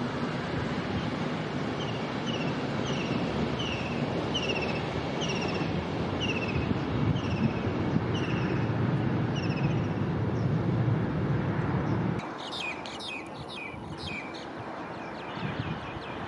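A bird repeats a short, falling chirp every half second or so over a steady low rumble. About three-quarters of the way through, the rumble drops away abruptly and a flurry of other bird chirps follows.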